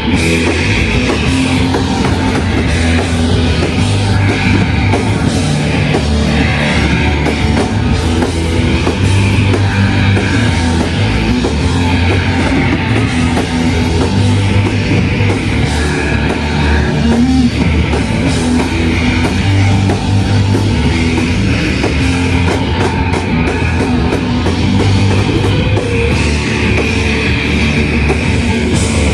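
A live shoegaze band playing at full volume: dense distorted electric guitars over drum kit and bass. The full band comes in right at the start.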